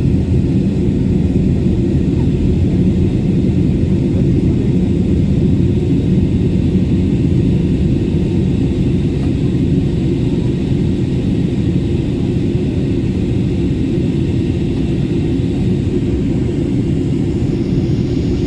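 Jet airliner cabin noise shortly after takeoff: a steady, loud, low rumble of the engines and rushing air heard from inside the passenger cabin.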